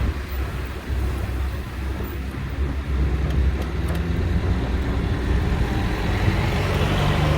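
Bus engine running low and steady with road noise, heard from on board while riding; its engine note grows stronger near the end.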